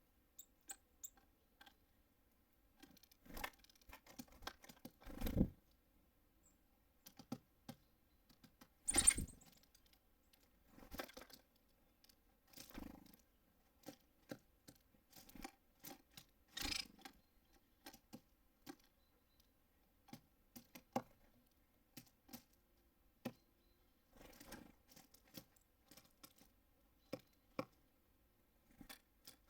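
Small birds at a feeder: irregular pecks, taps and scrapes of beaks and claws on the feeder and seed, with a few louder knocks.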